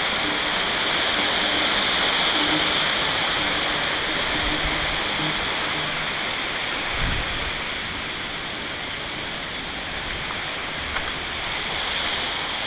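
Steady rushing of falling creek water from a small waterfall, with a soft low thump about seven seconds in.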